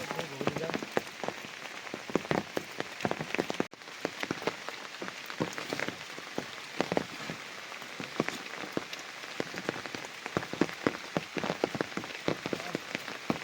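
Heavy rain falling, with many separate drops striking hard close by over a steady wash. The sound cuts out for an instant just before four seconds in.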